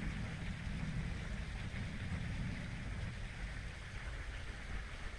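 Wind buffeting the microphone in an uneven low rumble, over a steady outdoor hiss.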